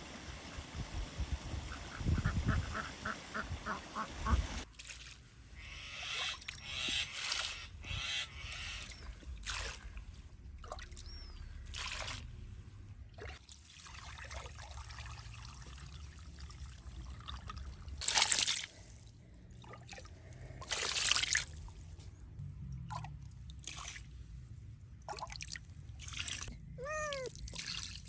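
Animal or bird calls: a quick run of pulsed calls early on and a call whose pitch rises then falls near the end. These come amid scattered clatter and rustling, with two louder bursts of hissing noise past the middle.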